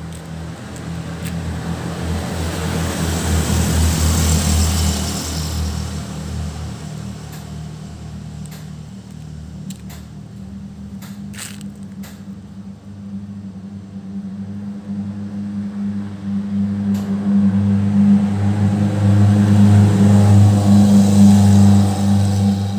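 Steady low engine hum of a motor vehicle, swelling louder about four seconds in and again near the end, with a few sharp clicks in the middle.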